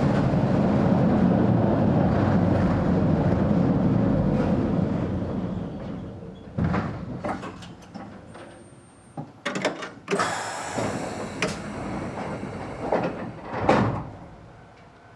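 Sangi Railway 270-series narrow-gauge electric train running with a steady rumble that fades away about five to eight seconds in as it comes to a stop. Then a series of clunks and knocks and a burst of air hiss about ten seconds in, as of the sliding doors being worked.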